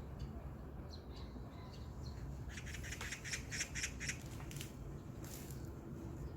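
Birds in the open at dawn: a few short high chirps, then about halfway through a rapid rattling series of sharp notes, about five a second for under two seconds, followed by a brief rushing hiss.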